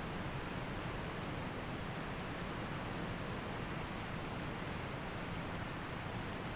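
Waterfall rushing, a steady even wash of water noise that does not change.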